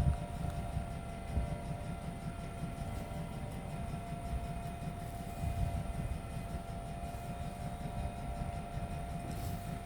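Puppy gnawing a bone: low, muffled chewing and scraping close to the microphone, over a steady electrical hum.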